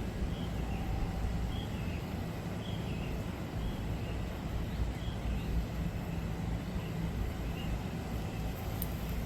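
Steady low outdoor rumble with faint, short high chirps about once a second.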